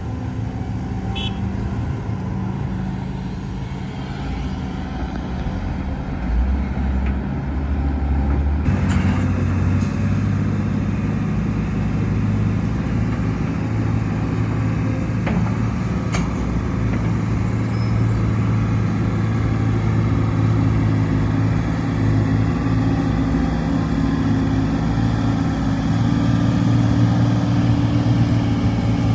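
Heavy diesel engine of earthmoving machinery running steadily. Its low drone gets louder and changes note about six to nine seconds in, then holds steady.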